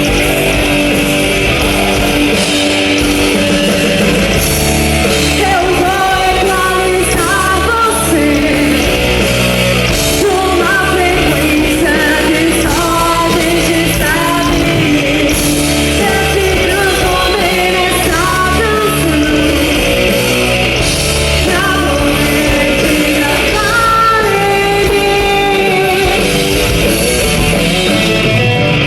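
Live rock band playing with a singer: distorted electric guitars, bass and drums under a sung vocal line.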